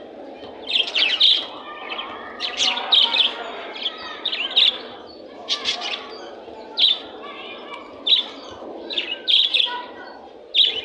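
Small birds chirping and tweeting in short, repeated bursts about once a second, over a steady low background noise.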